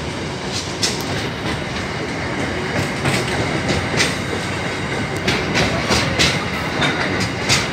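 Cement freight train's wagons rolling past: a steady rumble of steel wheels on rail, with irregular clicks as the wheels cross rail joints.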